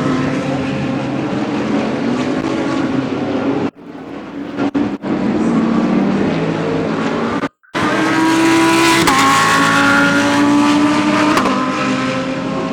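GT3 race cars running past through a corner, several engines overlapping with their pitch falling and rising as they brake and accelerate. The sound cuts out almost completely twice, briefly, about a third and two thirds of the way through.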